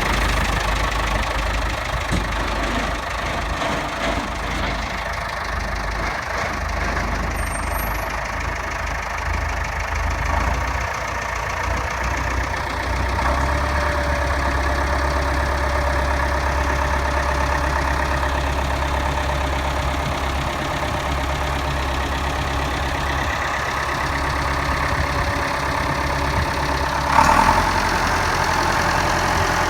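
Tractor engine running steadily, its low note shifting slightly partway through, with one short sharp knock near the end.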